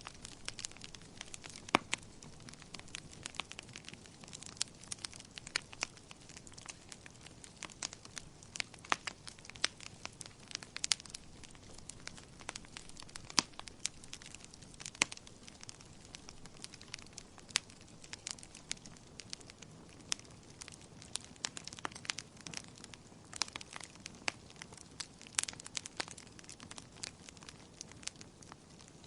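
Wood fire crackling in a fireplace: frequent irregular sharp pops and snaps over a faint low hiss of the burning.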